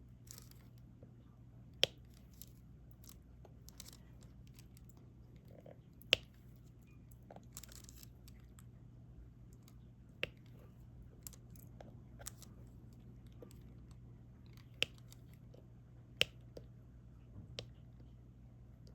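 Sparse, sharp little clicks and taps, every two to four seconds, as a diamond-painting stylus picks up resin drills and presses them onto the adhesive canvas, over a faint low steady hum.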